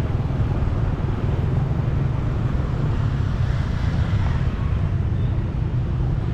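Motorbike running steadily on the move, a constant low rumble, with wind rushing over the microphone.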